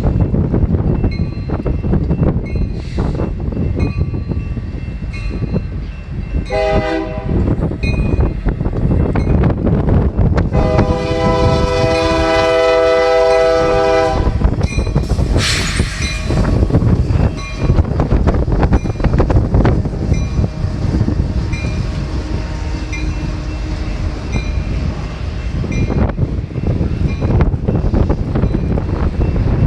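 Union Pacific freight locomotive horn sounding a short blast and then a long blast of about four seconds, over the rumble of the train and heavy wind buffeting the microphone.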